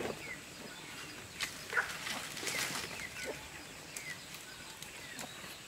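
Birds calling in short, falling chirps, with a few sharp taps in the middle.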